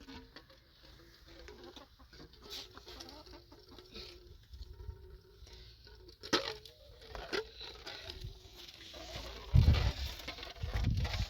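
Domestic fowl clucking, with a few sharper calls about six and seven seconds in. A low rumble rises near the end.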